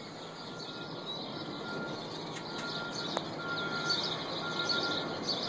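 Birds chirping in many small, quick, high chirps that grow busier from about three seconds in, over a steady background hiss, with one short click about three seconds in.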